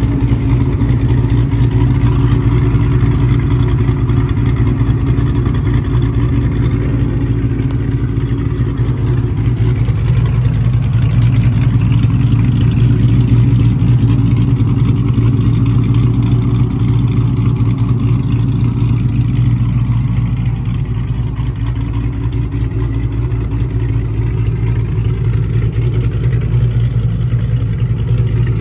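Motor vehicle running steadily, a loud low engine drone that eases slightly about two-thirds of the way through.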